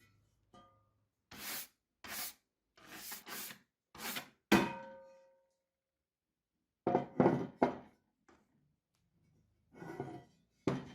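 Metal parts of an old drill press being handled. Several short scraping strokes come first, then a sharp metallic clink that rings on for about a second, then a few loud knocks and clicks.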